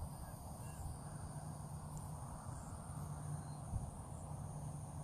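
Outdoor insect chorus: a steady high drone, with a few faint short calls over it and a low rumble on the microphone.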